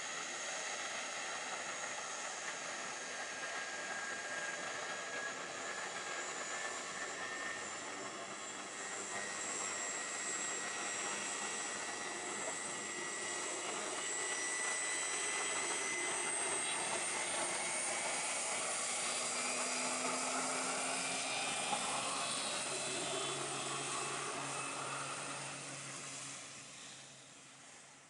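Air Tractor AT-802A's turboprop engine at takeoff power, a steady turbine whine over propeller noise that creeps slightly up in pitch. It grows louder through the middle, then fades away near the end as the plane moves off.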